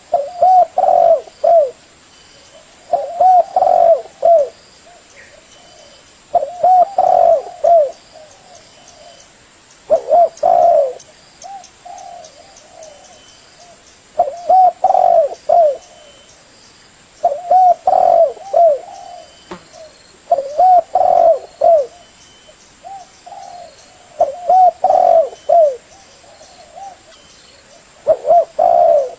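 Spotted dove cooing: a phrase of several mellow coos repeated about every three to four seconds, nine times, with fainter coos in between.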